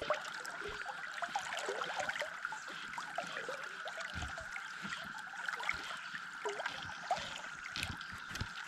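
River water trickling and gurgling, over the steady high drone of a cicada chorus that holds one pitch.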